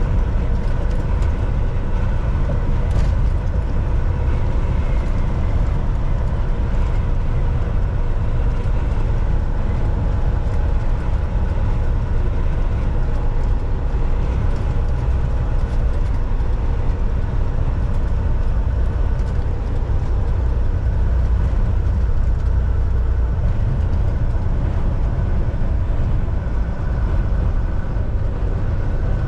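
Volvo VNL 760 semi truck cruising on the highway: a steady drone of engine and tyre-on-road rumble, heavy in the bass, with a few faint steady tones above it.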